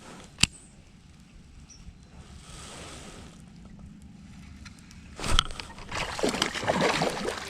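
A sharp click near the start, then about five seconds in a sudden knock followed by water splashing and sloshing against a fishing kayak.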